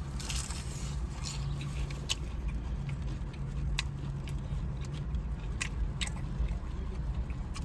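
Biting into a crispy fried chicken wing and chewing it close to the microphone. A crunch comes right at the start, then scattered sharp crunches as it is chewed, over a steady low hum.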